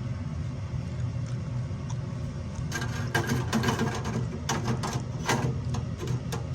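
Sharp metal clicks and clanks of gas furnace burners being handled and popped into place, coming thick from about halfway through, over a steady low hum.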